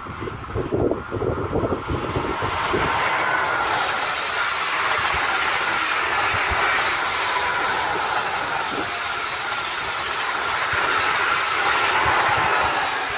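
A train passing by on the main line at speed: a steady rush of wheel and rail noise that builds about two seconds in and eases off near the end, with some clickety-clack.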